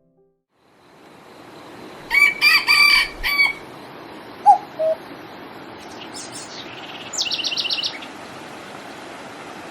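A rooster crowing once, about two seconds in, followed by two short calls and a small bird's fast high trill near the end, over a steady outdoor hiss.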